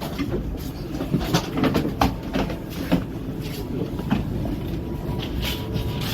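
E5 series Shinkansen train noise: a steady low rumble, with a run of sharp clicks and knocks about a second in that fade out by around four seconds.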